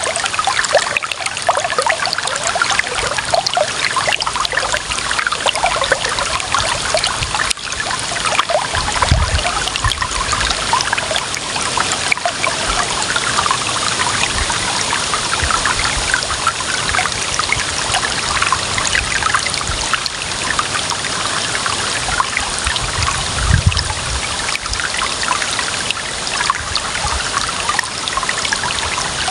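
Clear water running and trickling steadily, a dense splashing burble, with a brief low rumble twice, about nine seconds in and near twenty-three seconds.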